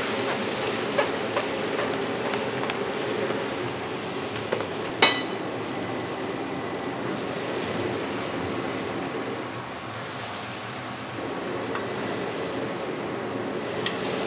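Ground chili paste frying in hot oil in a large pan: a steady sizzle, with a few light knocks of the spatula and one sharp metallic clang about five seconds in.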